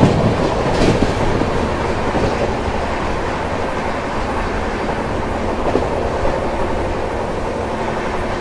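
Express passenger train running at speed, heard from beside its sleeper coach: a steady rush of wheel and track noise with occasional clicks of the wheels over the rail joints.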